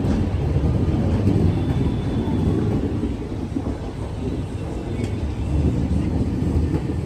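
Steady low rumble of a passenger train running along the track, with wheels on rails and the coach droning, heard from on board.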